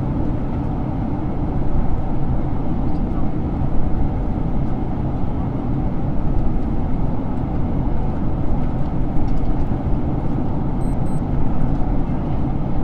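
Steady low cabin rumble of a Boeing 767-300 in flight on approach, jet engines and airflow blended into an even roar.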